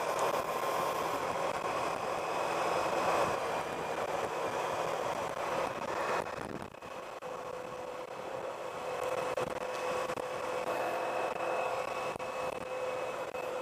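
Steady wind and road noise from a Honda Pan-European touring motorcycle on the move, with a faint steady whine from the machine under it, heard on a helmet-mounted microphone.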